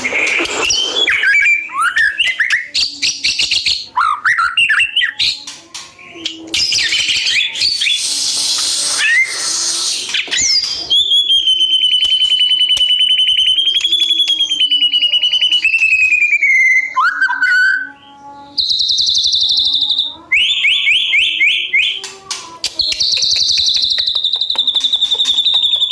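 A mure songbird singing loudly. It starts with a run of varied whistles and chirps, then holds one long wavering trill for about six seconds, then gives short repeated buzzy trills for the rest of the song.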